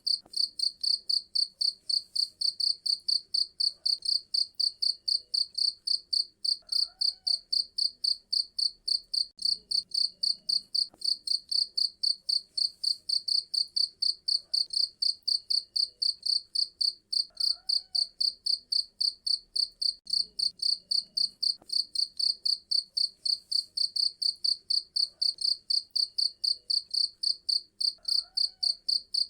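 Cricket chirping loudly and steadily in an even, rapid train of high-pitched pulses, about three to four a second.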